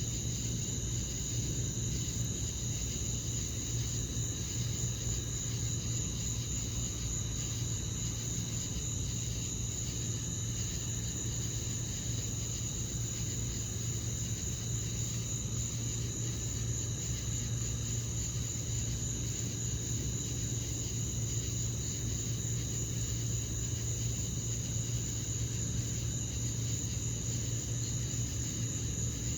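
Steady chorus of crickets trilling high and unbroken, over a constant low hum.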